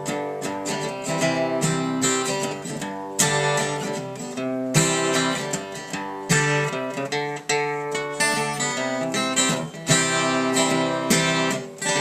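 Seagull acoustic guitar with a rosewood body being strummed, chords ringing out with a new strum about every one to two seconds, on strings the player calls dead.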